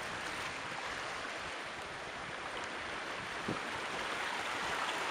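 Sea surf washing over a rocky shore: a steady rushing hiss with no distinct breaks.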